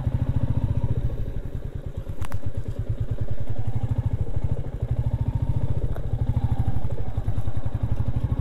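Royal Enfield Meteor 350's single-cylinder engine running under way, its exhaust beat steady and even; the engine eases off about a second in and picks up again a second later, with a sharp click about two seconds in.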